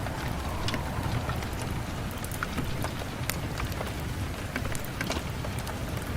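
Steady rain on a window, with individual drops tapping irregularly over a constant hiss and a low rumble.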